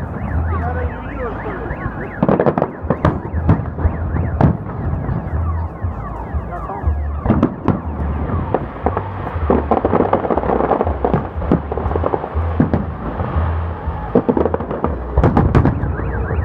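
Salute fireworks going off in quick, irregular bangs and crackles, with a cluster of bangs near the end. Car alarms set off by the blasts wail alongside in repeated rising sweeps, plainer in the second half.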